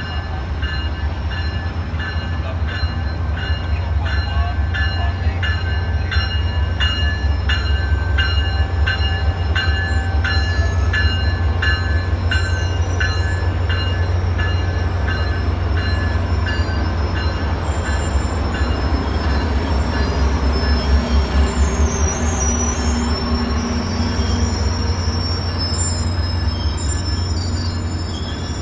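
Train rolling past close by: a heavy low rumble with wheels clicking over rail joints about twice a second for the first half, then high squealing from the wheels on the rails.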